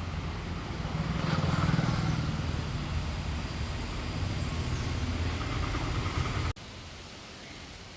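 Low engine rumble of a motor vehicle running nearby, swelling about a second in and easing off. It cuts off abruptly near the end, leaving a faint hiss.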